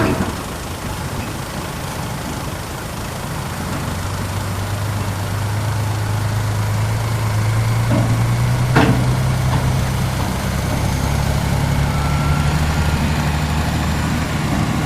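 Mining dump truck's diesel engine running steadily. Its pitch climbs slowly and then steps up about ten seconds in as the engine speeds up. Two short clunks come at the start and about nine seconds in.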